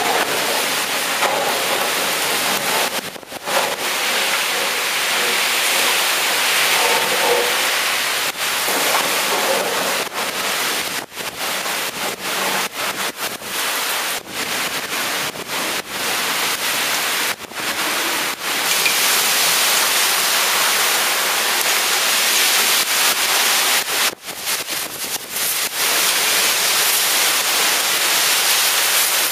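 Heavy thunderstorm rain pouring down, a loud steady hiss that cuts out briefly several times.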